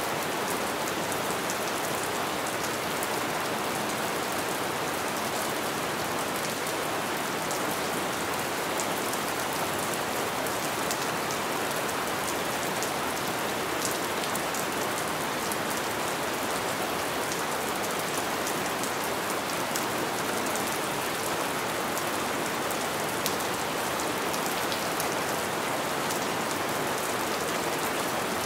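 Steady light rain: an even hiss with fine, scattered ticks of single drops.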